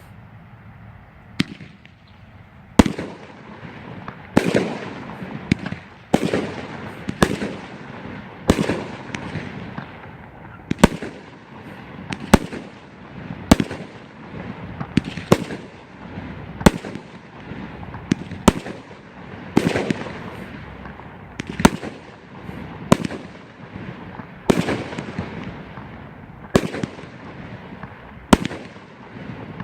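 A 500-gram 'Subatomic Energy' fireworks cake firing: a long run of sharp bangs about one a second, each trailed by a fading hiss. The first bang comes about a second and a half in.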